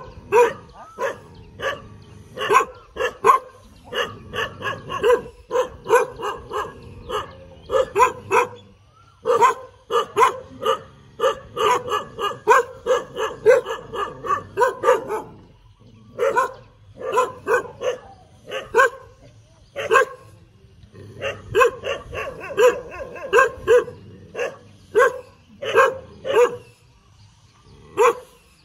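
A dog barking over and over in quick runs of several sharp barks a second, with brief pauses between runs.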